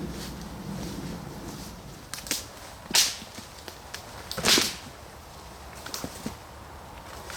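Dead wood snapping: two loud, sharp cracks about a second and a half apart, with smaller clicks and crackles around them.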